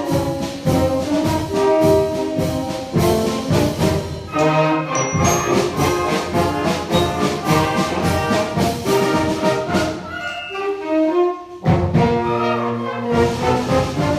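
Youth wind band playing a Disney medley, with trumpets and trombones leading over drum strokes on a steady beat. The band thins out briefly about eleven and a half seconds in, then comes back in at full strength.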